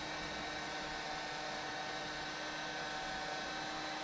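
Steady electrical hum with a few constant tones over a faint hiss, unchanging throughout.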